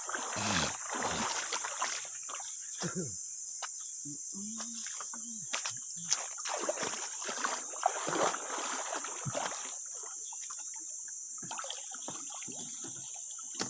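Water splashing and sloshing in irregular surges, over a steady high drone of insects.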